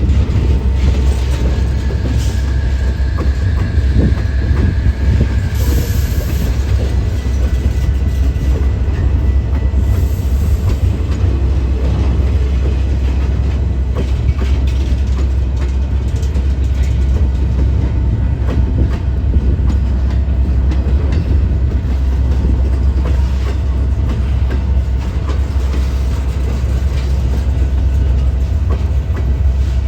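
A train rolling past: a steady, heavy rumble with scattered clicks of wheels on the rails. A faint high wheel squeal sounds from about one to six seconds in.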